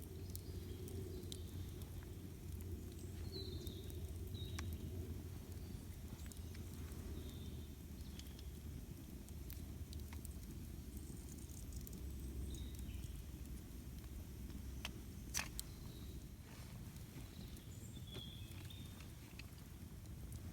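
Outdoor campfire burning with sparse crackles and pops over a steady low rumble, the sharpest pop about 15 seconds in; a few short bird chirps sound now and then.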